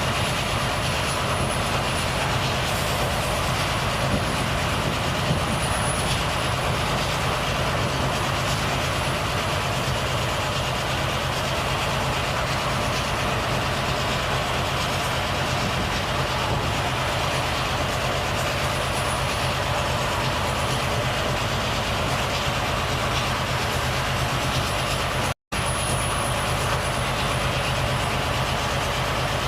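Volvo FH truck driving at a steady speed: engine running evenly under road and tyre noise. The audio cuts out completely for a split second near the end.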